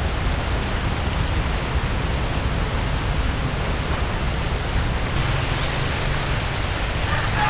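A steady rushing noise with a heavy low rumble; a faint low hum joins about five seconds in.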